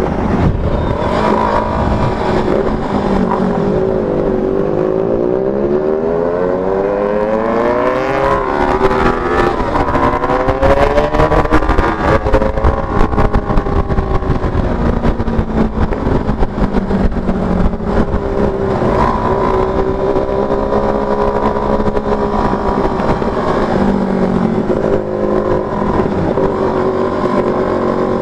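Motorcycle engine with an aftermarket exhaust running on the road, its pitch falling and rising several times with throttle and gear changes, with heavy wind buffeting on the microphone.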